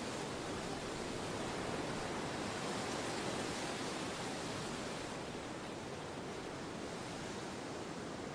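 Steady wind noise, an even rushing that swells slightly and eases off a little about halfway through.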